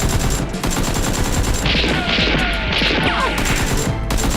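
Sustained volley of rapid gunfire, many shots packed closely together, over background music.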